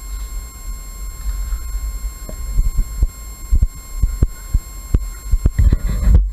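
Irregular muffled thumps over a low rumble, the handling and movement noise of a body-worn camera microphone, with a faint steady high electronic whine.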